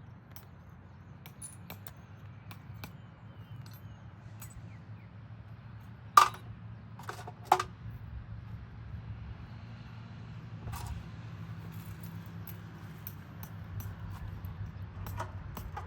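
Scattered metallic clinks and knocks, two much louder ones about six and seven and a half seconds in, over a steady low hum.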